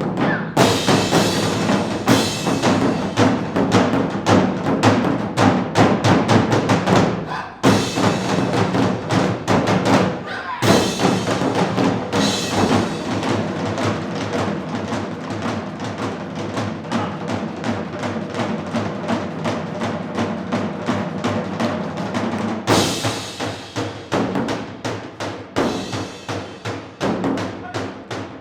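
Live percussion-led music from a fusion percussion ensemble, with drums and wood-block-like strikes in a dense, fast rhythm over sustained pitched tones. It breaks off briefly twice about a third of the way in, and a loud re-entry comes about three-quarters through.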